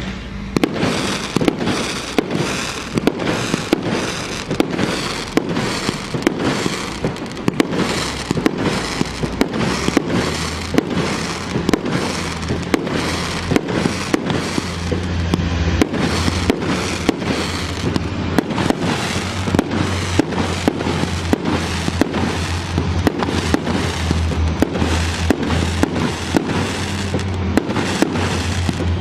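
A consumer firework battery firing shot after shot in a steady series, about two a second, each a sharp bang or crackle.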